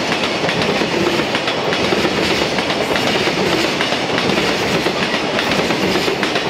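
Container flat wagons of a freight train rolling past, mostly empty, with steady wheel-and-rail noise and a running clickety-clack of wheels over the rail joints.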